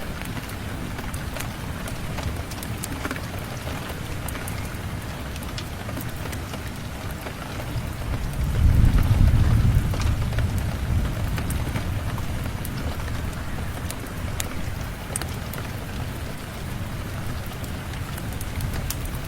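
Steady rain falling, with a low rumble of thunder that swells about eight seconds in and slowly dies away.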